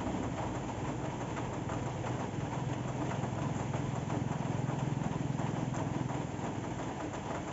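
Steady rain falling, with fine drops ticking throughout, over the low hum of an engine that grows stronger through the middle and fades out near the end.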